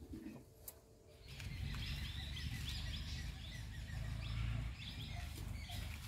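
Small birds chirping, with many short repeated calls starting about a second in, over a steady low rumble.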